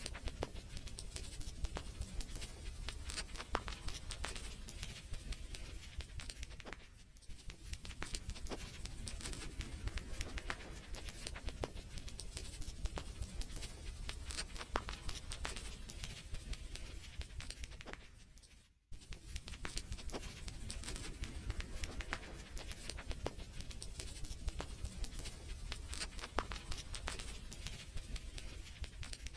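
Wood fire crackling: a dense stream of sharp pops and snaps over a steady low rumble. It drops away briefly to near silence about two-thirds of the way through, then resumes.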